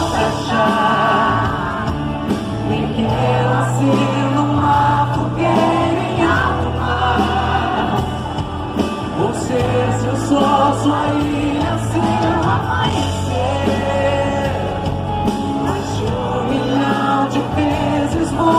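Live band music with singing, over held bass notes.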